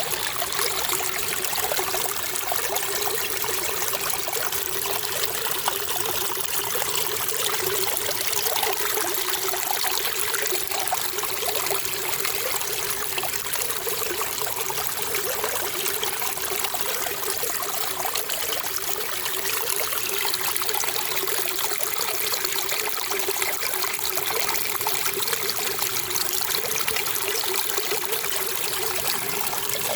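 Flowing water trickling and splashing steadily, like a small stream.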